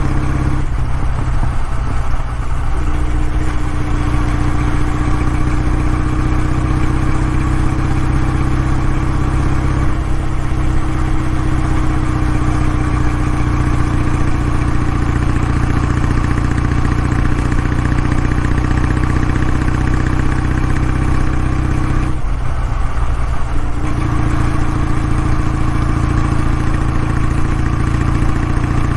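Kawasaki W650's air-cooled parallel-twin engine running steadily through its exhaust. Its even note briefly breaks up twice, about a second in and again near the end, then settles back.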